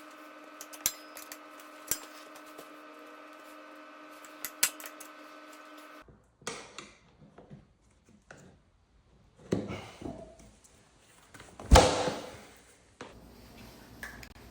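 A steady hum with a few small clicks for about six seconds, then steel tire spoons scraping and clanking against the dirt bike wheel's rim as a new tire is levered on. The loudest single clank comes near the end.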